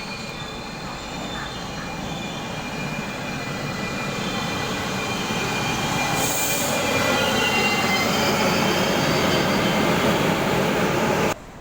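Taiwan Railways electric express train pulling into an underground station platform, its wheels and running gear rumbling and squealing with thin high steady tones, growing steadily louder. The sound cuts off abruptly near the end.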